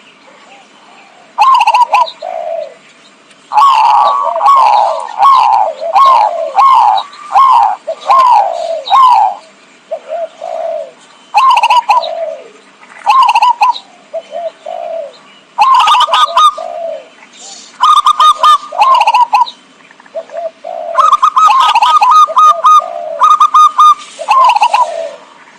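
Zebra doves (perkutut) cooing loudly in bursts of quick, repeated rolling coo notes with short pauses between them. It is a dove lure call (pikat) played to draw wild doves in.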